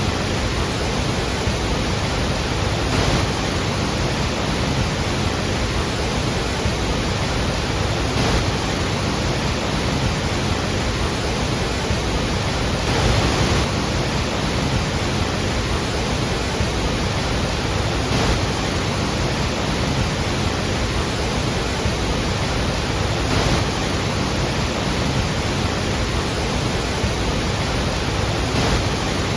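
Large waterfall: a heavy, steady roar of falling water, swelling slightly every few seconds.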